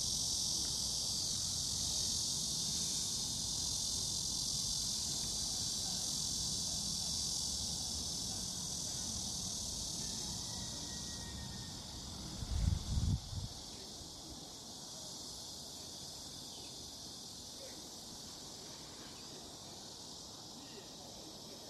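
Steady high-pitched drone of an insect chorus, which fades gradually after about halfway. A few dull low thumps come briefly near the middle.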